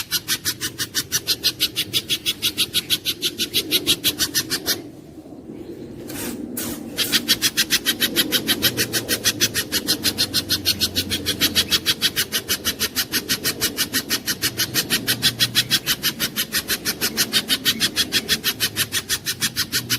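Spiderhunter (pijantung gunung) calling, a fast, even run of sharp chipping notes at about five a second, broken by a pause of about two seconds around five seconds in.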